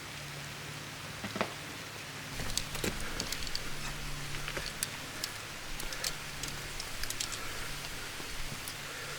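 Rain falling: a steady hiss with scattered sharp taps of drops on nearby surfaces, the taps growing more frequent about two and a half seconds in.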